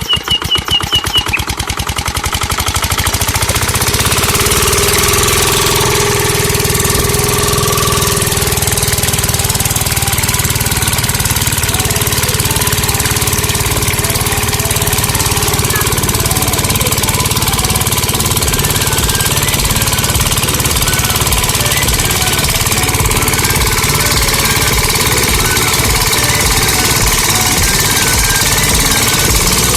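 Miniature diesel engine driving a water pump: slow, even pulsing for the first second or so, then running fast and steady with a rapid knocking beat.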